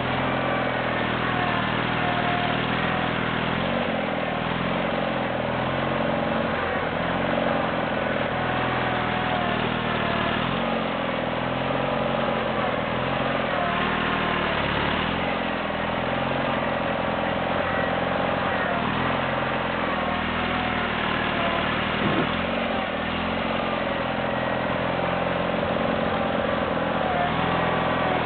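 Ariens GT17 garden tractor engine running steadily while plowing deep snow, its pitch rising and falling as the load changes while it works forward and back.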